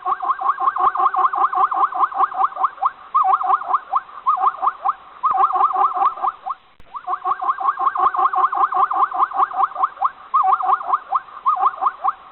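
An animal call: rapid runs of short, squeaky notes, about eight to ten a second, in bursts separated by short breaks, with the same passage repeated about halfway through.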